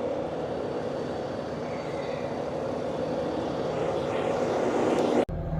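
Pickup truck engine running steadily as the truck is driven and repositioned. About five seconds in it cuts off suddenly to a low, humming music bed.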